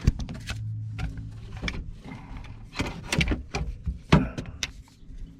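Handling noise: a string of sharp knocks, clicks and rustles as things are moved and bumped around, over a low steady hum that fades out after about a second.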